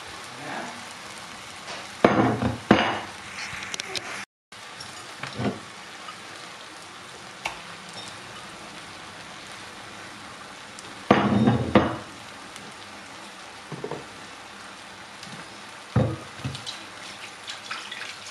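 Chicken and tomato-onion masala sizzling steadily in a pot on the hob, with a few louder irregular bursts of handling noise, the loudest about two seconds in and again near the middle.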